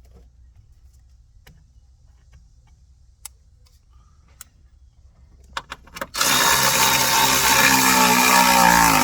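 A few light clicks and knocks of tools on metal, then a handheld power tool runs for about three seconds, its motor pitch wavering, and stops.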